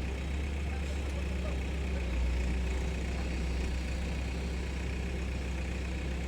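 Diesel engines of heavy earth-moving machines running steadily with a low, even hum.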